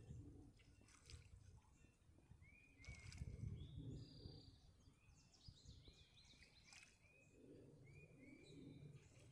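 Faint birdsong: short, slurred whistled notes repeated in quick runs, several overlapping, over a low rumble.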